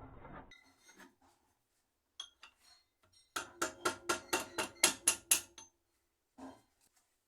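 Light metallic tapping on engine parts: a few scattered clicks, then a quick run of about nine sharp taps with a short ring, and one more tap near the end.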